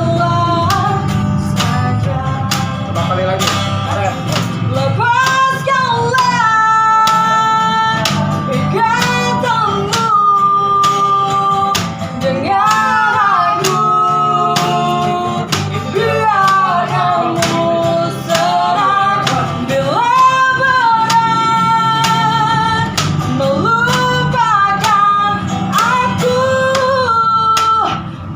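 A high-voiced singer sings a pop-rock ballad melody with vibrato, accompanied by guitar.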